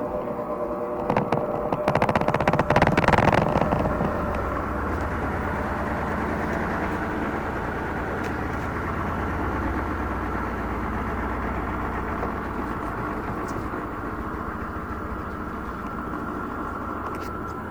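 Electrolux LAC12 top-load washing machine running with an unbalanced load. About a second in comes a burst of rapid knocking and rattling lasting a few seconds, the loudest part. After that the motor and drum settle into a steady hum.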